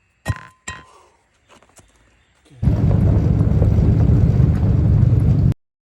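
Two short metallic clinks, then about three seconds of loud low rumbling noise that starts suddenly and cuts off abruptly.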